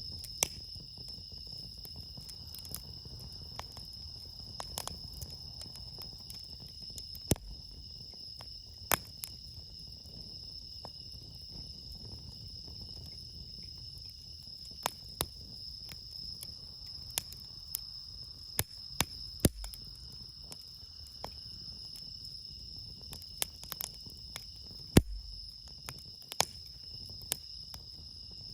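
Wood campfire crackling with irregular sharp pops, the loudest about 25 seconds in, over the steady high-pitched chirping of crickets.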